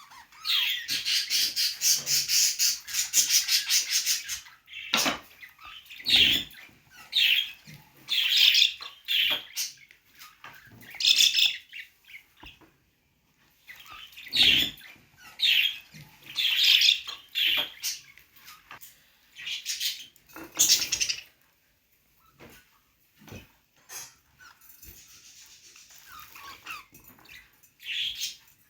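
Budgerigars chirping and chattering: a fast run of high chatter at the start, then separate bursts of chirps with short pauses between.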